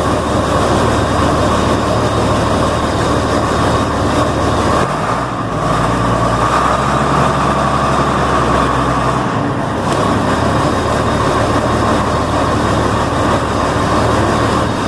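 Combine harvester's diesel engine running steadily, its note changing for a few seconds in the middle.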